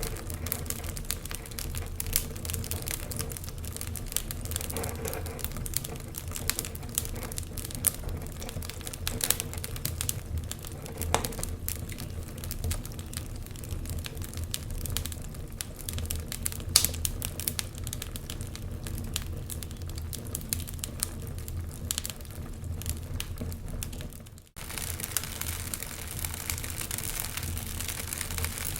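Wood fire crackling with irregular sharp pops over a steady low rumble. The sound cuts out for a moment near the end, then resumes with a little more hiss.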